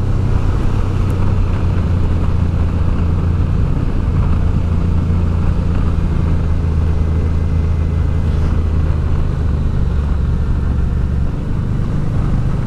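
Honda Deauville motorcycle's V-twin engine running steadily at road speed, heard from on board over a haze of wind and road noise; the engine note shifts slightly about eleven seconds in.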